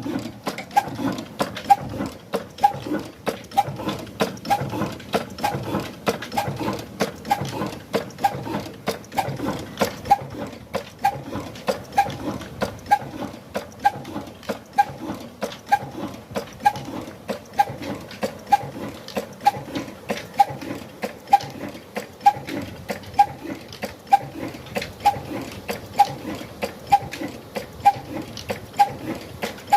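Old Ruston 'kala' (black) single-cylinder engine running with a slow, even thud-thud beat, with rapid clicking over it.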